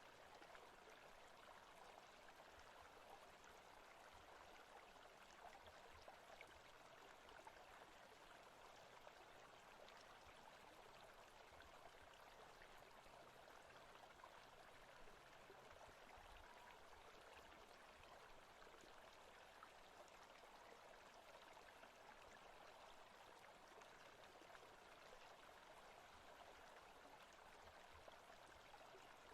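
Faint, steady rushing of a flowing stream, as a forest ambience track.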